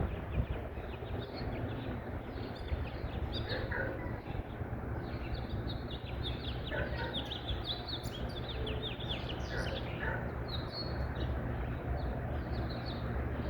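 Small songbirds chirping and twittering, many short quick calls overlapping one another, over a steady low rumble.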